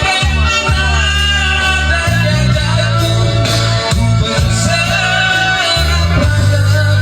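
Music: a singer's voice over instrumental accompaniment with a steady, sustained bass line.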